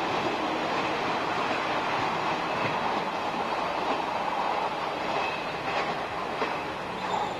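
Orange-and-green JNR electric multiple-unit train running away along the curving tracks: a steady rumble of wheels on rail that slowly fades, with a brief faint high squeal about five seconds in.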